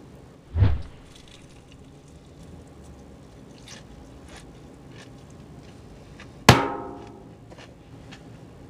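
A bite into crispy fried chicken about half a second in, followed by chewing with small scattered crunches and clicks. About six and a half seconds in comes a sharp knock with a short ringing tail, the loudest sound.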